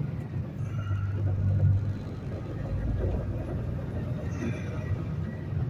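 Peterbilt semi truck rolling at highway speed: a steady low diesel engine drone with road noise, heard from inside the cab.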